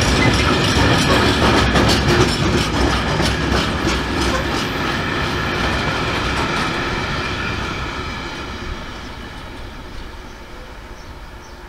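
Yellow open box wagons of an engineers' freight train rolling past, their wheels clattering over the rail joints. The last wagon passes, and the rumble fades away over the final few seconds.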